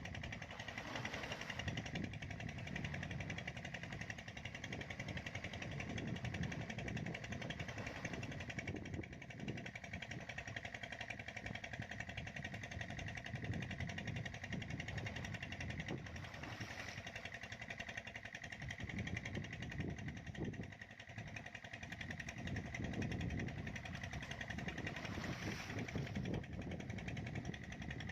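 A motor running steadily, a rough low rumble with a faint steady high tone over it.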